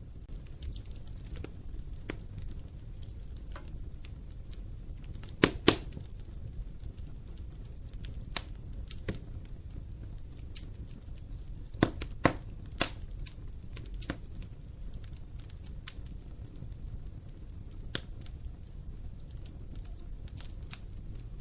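Wood fire burning in an open fireplace: a steady low rumble of flame with irregular sharp crackles and pops, the loudest a quick double pop about five seconds in and a cluster of pops around twelve seconds.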